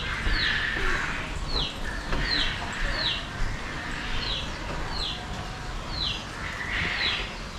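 A bird chirping over and over: short, high chirps that fall in pitch, one or two a second.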